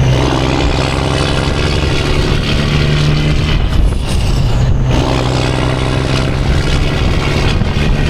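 Semi truck's diesel engine running under way, a steady low drone under road and wind noise, with brief dips about halfway through.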